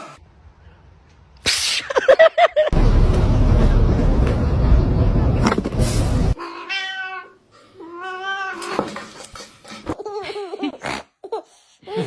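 A cat meowing in long, wavering yowls over the second half, after a few seconds of loud rushing noise.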